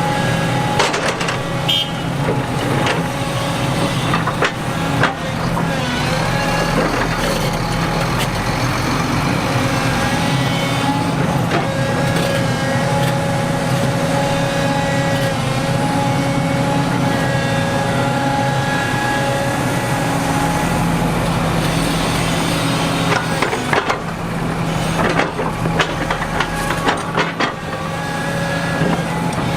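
Heavy diesel earthmoving machinery running steadily under load, with scattered clanks and knocks and a cluster of them near the end.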